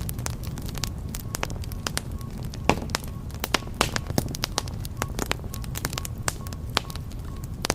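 Wood fire burning in a fireplace, crackling with irregular sharp pops over a low steady rumble of the flames; the loudest pop comes a little under three seconds in.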